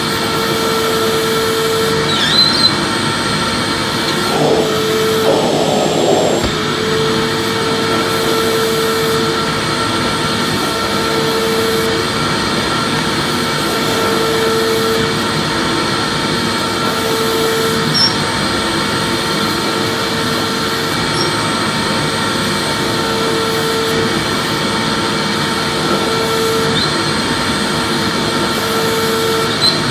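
Vacuum cleaner running continuously, a dense steady rushing noise with a faint high whine from the motor. A lower hum keeps fading in and out every couple of seconds, and a short uneven stretch comes about five seconds in.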